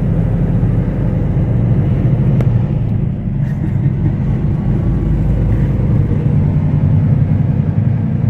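Semi truck's engine and road noise droning steadily inside the cab while driving.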